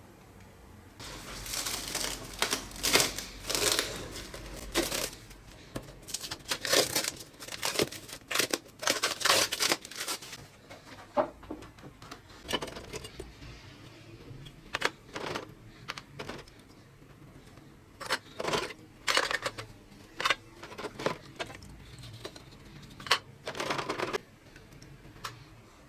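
Irregular bursts of scraping, crinkling and clicking from hands working on a rusty model truck, coming in clusters with short quiet gaps.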